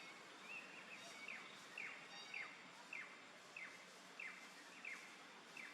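A bird calling over and over: a faint run of short falling whistled notes, about one every half second or so.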